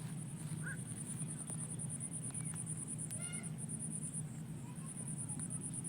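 Outdoor ambience: an insect's very high, rapid pulsing trill that breaks off briefly twice, over a steady low hum. A short bird call comes about three seconds in.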